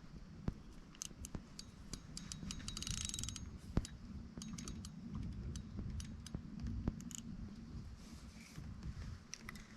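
Fishing reel being handled and cranked: scattered light mechanical clicks and ticks, with a short hiss about three seconds in.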